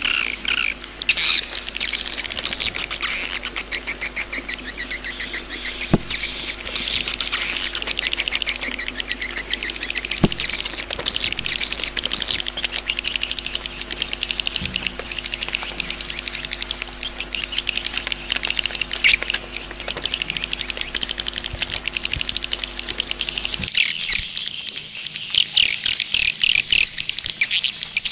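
Swiftlet calls: a dense, continuous flurry of rapid high chirps and twitters. A low steady hum underneath cuts off suddenly near the end, while the chirping carries on.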